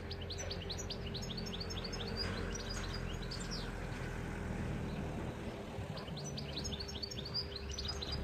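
European goldfinch singing: two runs of rapid, high twittering notes, each about three seconds long with a short pause between, over a steady low hum.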